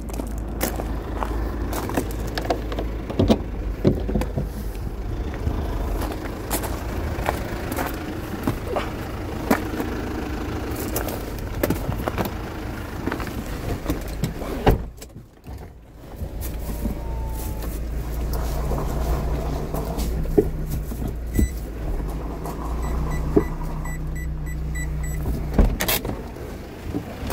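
A motor vehicle running with a steady low rumble, with scattered clicks and knocks throughout; the sound drops away briefly about halfway through.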